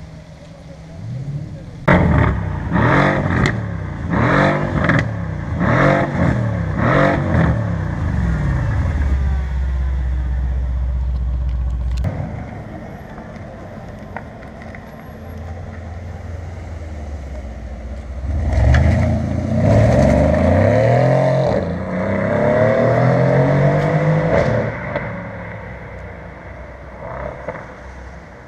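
Mercedes-AMG C63 S Edition 1's twin-turbo V8 through an Akrapovič exhaust: a run of about six sharp revs in quick succession, then a steady low idle. Later the car accelerates hard, engine pitch climbing, and the sound fades away.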